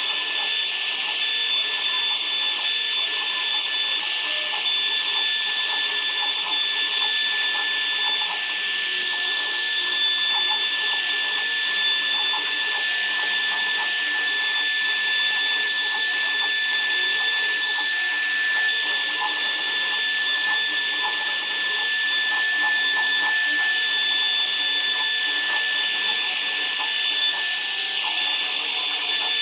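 Woodworking power tool running steadily with a constant high whine.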